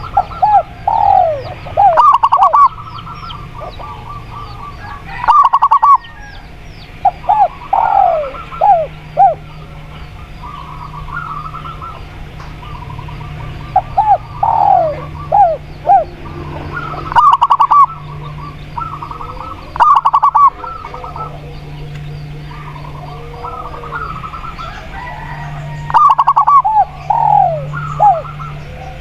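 Spotted dove and zebra dove calling: phrases of short cooing notes repeated every few seconds, some very loud. Faint high chirping and a steady low hum sit underneath.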